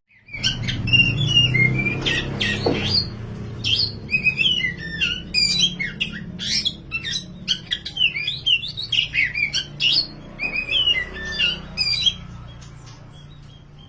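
Oriental magpie-robin, dark 'wulung' form, singing a fast, varied run of whistled notes that glide up and down. The song starts just after the opening and stops near the end, over a steady low background hum.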